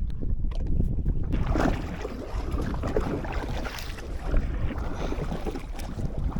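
Wind buffeting the microphone in a steady low rumble on an open boat at sea, with water splashing and sloshing at the hull coming in about a second and a half in.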